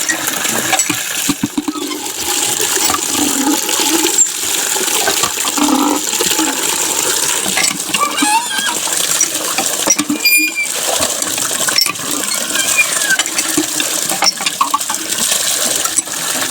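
Water spraying and splashing from a small DIY water pump onto a toy tractor, a steady hiss with light clinking drips.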